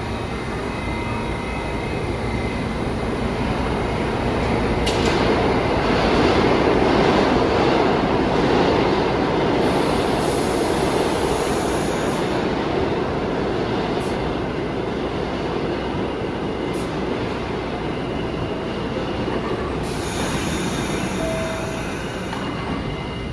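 New York City subway train running through an underground station, its rumble swelling to a peak about six seconds in and easing off, with high-pitched wheel squeal coming in twice.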